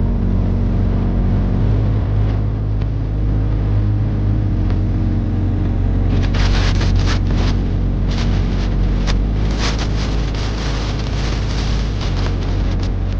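Motorcycle engine running at a steady pitch. From about halfway through, wind buffets the microphone in irregular gusts.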